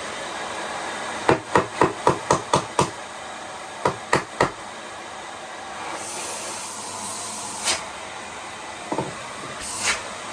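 Commercial vacuum cleaner running steadily, with a quick run of about eight sharp clicks and knocks a second or so in, three more around four seconds in, and a few single knocks later.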